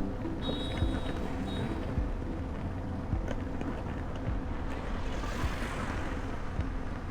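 Motorcycle riding through city traffic: a steady engine and road rumble with wind buffeting the microphone. A few short high beeps sound in the first couple of seconds, and a hiss swells about five seconds in.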